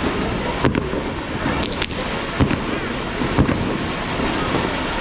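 Firework shells bursting overhead: about five sharp bangs at uneven spacing over a continuous rumbling hiss of other effects.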